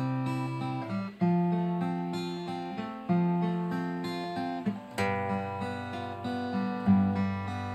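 Acoustic guitar fingerpicked in a basic 3/4 waltz arpeggio pattern, chords only with no melody, plucked notes ringing and fading, a new bar accented about every two seconds.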